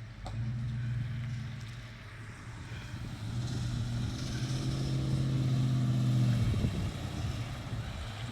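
Car engines at low revs as cars drive slowly past; one engine grows louder over a few seconds, is loudest about six seconds in, then drops away quickly.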